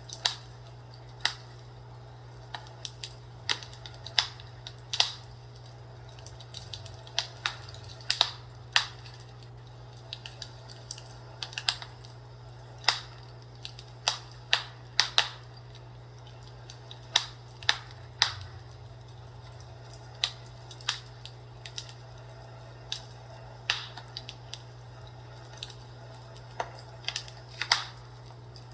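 Fireplace crackling: irregular sharp pops and snaps, some louder than others, spaced unevenly about one or two a second, over a steady low hum.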